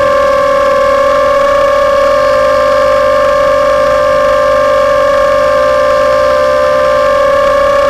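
Quadcopter's electric motors and propellers whining at a steady, nearly constant pitch, as in level flight or a hover.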